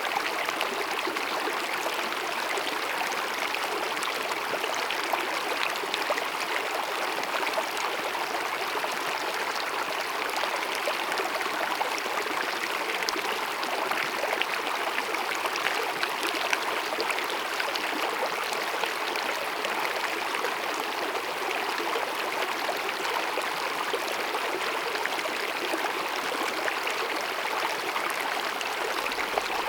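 Small glacier-fed mountain stream babbling over rocks, a steady, unbroken rush of running water.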